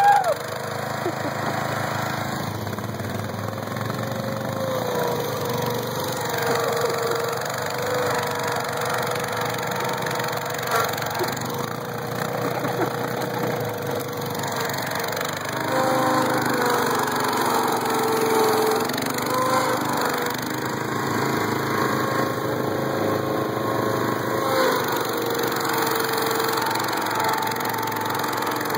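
Engines of a Suzuki King Quad 700 ATV and a 1976 Jacobsen GT14 lawn tractor running under load as the two machines pull against each other in a tug of war. The engine pitch wavers and shifts with the revs, and about halfway through the sound grows louder as they lay into the pull.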